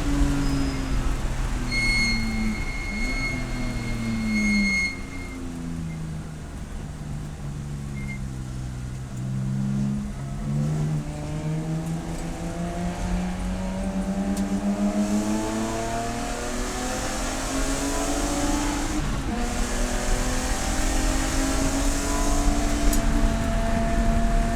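Race car engine slowing with falling pitch for a corner, staying low through it, then climbing again as the car accelerates away, with a gear change about two-thirds of the way through. A high steady whine sounds for about three seconds near the start.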